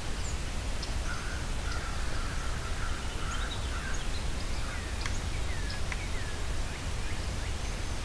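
Several wild birds calling over a steady low rumble: a run of repeated calls in the first few seconds, then scattered short chirps and sliding notes.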